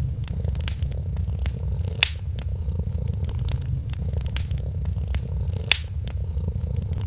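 A cat purring steadily, under the crackling of a wood fire: frequent small snaps, with sharp pops about two seconds in and shortly before six seconds.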